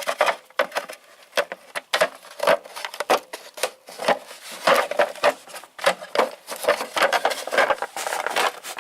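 Loose metal sockets clinking and clattering together as they are handled and shuffled in a tool box drawer: an irregular run of sharp clicks and knocks.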